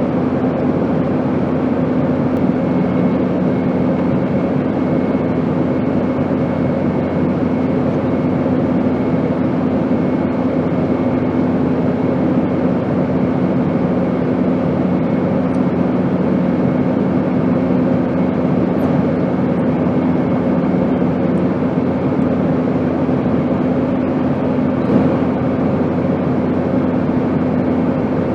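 Airplane's steady drone: a constant rushing noise with a low hum underneath, unchanging throughout.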